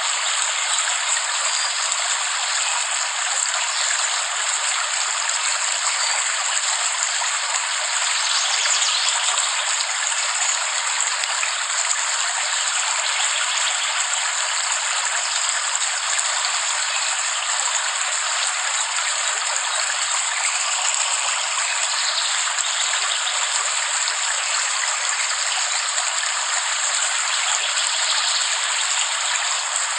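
Steady rain, an even continuous hiss with no thunder and no single drops standing out.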